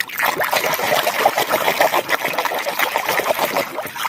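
Water splashing and trickling as a small mud-covered toy is washed and rinsed, with irregular, dense splashes throughout.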